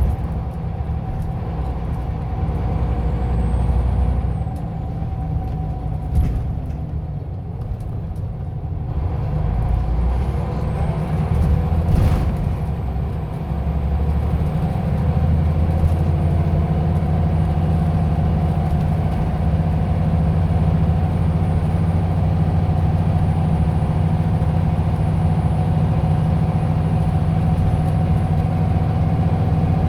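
Scania OmniLink city bus's engine running as the bus drives, with the engine note changing a few times in the first half. There is a short sharp air-release sound about twelve seconds in, after which the engine runs louder and steady.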